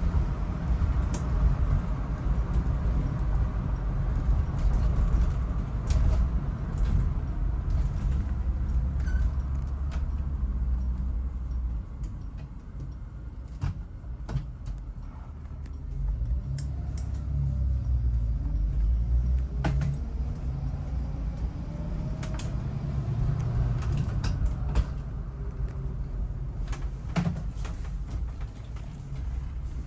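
1976 Chevrolet Blazer under way: steady engine and road rumble that eases off about twelve seconds in and picks up again about four seconds later, with the engine pitch rising and falling. Scattered sharp clicks and knocks.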